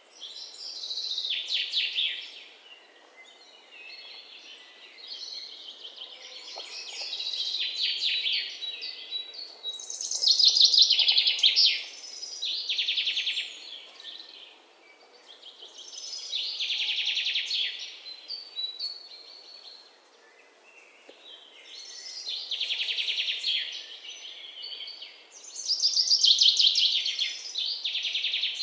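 Songbirds singing: loud phrases of fast, trilled chirps, each lasting a second or two and repeating every few seconds, over faint outdoor background noise.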